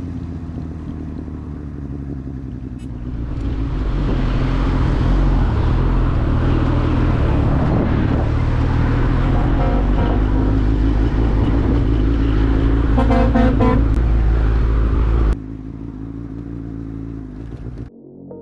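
Motorcycle engine running under heavy road and wind noise, with a few short horn toots in the middle stretch. The sound cuts off suddenly about three-quarters of the way through, leaving a quieter steady engine hum.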